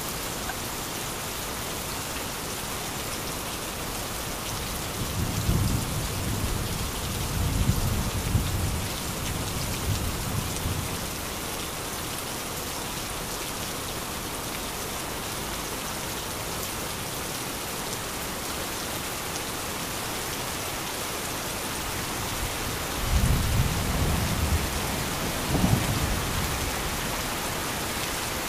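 Heavy rain falling steadily, with rolling thunder rumbling twice: once for several seconds starting about five seconds in, and again near the end.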